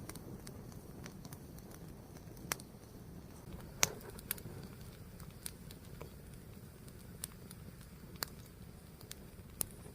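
A fire burning with a steady low rush and irregular sharp crackles and pops, about seven in all, the loudest a little under four seconds in.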